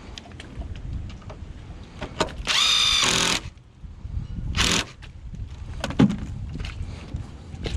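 Power drill running in a short burst of under a second, its pitch rising as it spins up, followed a second or so later by a shorter burst, with a few knocks and wind rumble around it.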